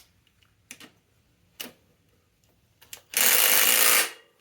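A few light clicks, then a cordless power driver runs in one steady burst of about a second near the end. It is turning the bolt in the tightening direction instead of loosening it.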